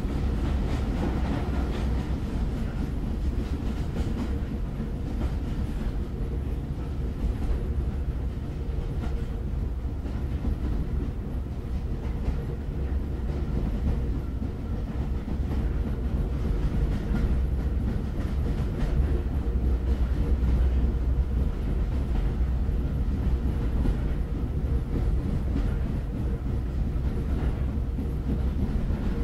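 Train running on the rails: a steady low rumble with faint clickety-clack, swelling a little past the middle.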